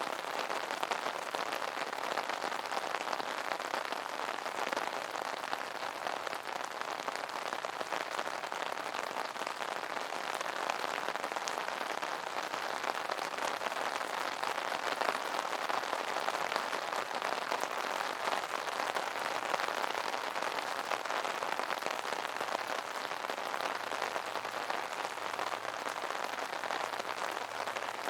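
Steady rain pattering on an umbrella's fabric canopy, a dense, even patter of many small drop impacts.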